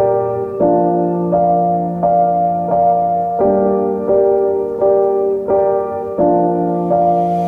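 Background piano music: a gentle, repeating pattern of notes at an even pace.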